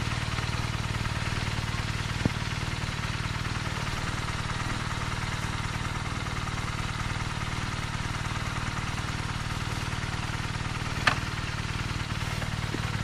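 BMW R nineT's air/oil-cooled boxer twin engine idling steadily, with no revving. A faint click about two seconds in and a brief, sharper click near the end.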